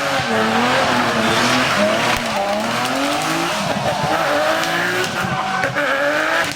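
Drift car engine revving up and down repeatedly as the throttle is worked, over the hiss and squeal of tyres sliding sideways on asphalt.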